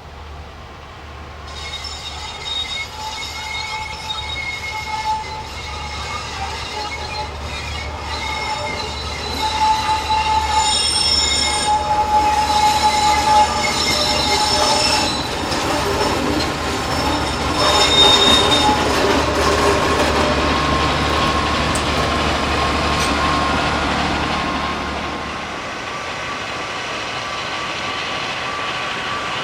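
A train on the Diakopto–Kalavryta narrow-gauge rack railway running past with its wheels squealing on the rails: several high whining tones over rolling noise that builds toward the middle and eases off near the end, with a low hum underneath that stops shortly before the end.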